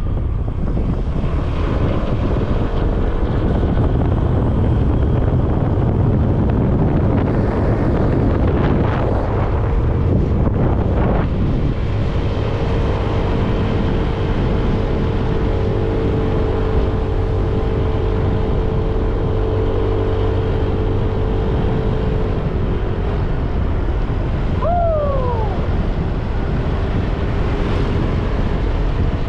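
Wind buffeting the microphone of a moving motor scooter, with the scooter's engine running steadily underneath. About 25 seconds in comes one short, falling whistle-like tone.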